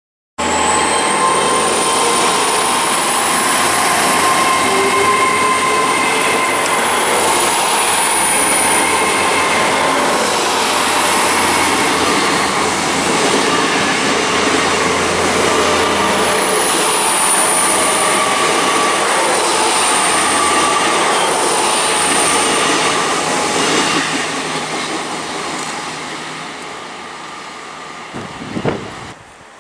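Hitachi Class 800 train running beside the platform: a loud, steady rumble and hiss with thin high-pitched whining tones over it, dying away over the last few seconds.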